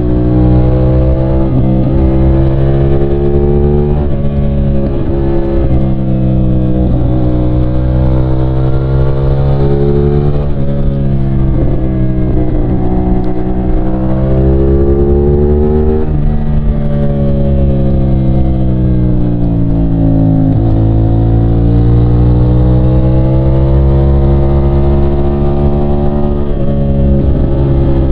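CFMOTO 450SR's 450cc parallel-twin engine under way, its pitch climbing and falling repeatedly as it revs and is shifted. There are several sudden drops in pitch and long rises through the revs.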